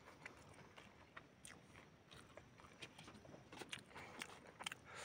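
Faint chewing and biting of food: scattered small mouth clicks and crunches, coming more often near the end.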